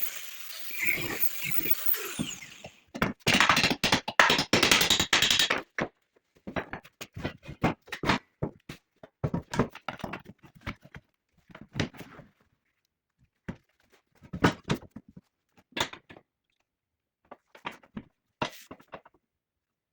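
Workshop handling noise: a dense run of clattering knocks for about three seconds, then scattered single knocks and taps.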